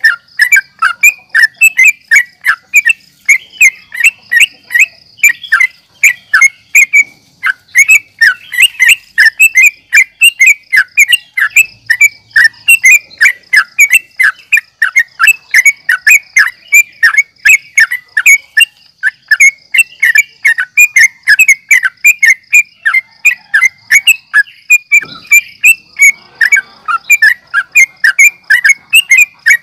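Yellow-vented bulbul singing a fast, unbroken run of short, sharp chattering notes, several a second: the agitated, challenging song kept by bird keepers as a lure to set other bulbuls singing. A steady thin high tone runs underneath.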